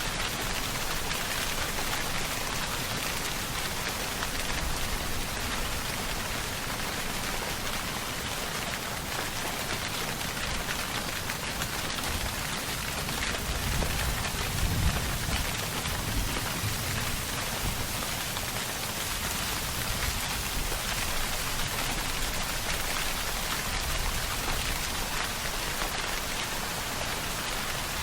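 Steady, heavy rainfall pattering on a surface, with a brief low rumble swelling about halfway through.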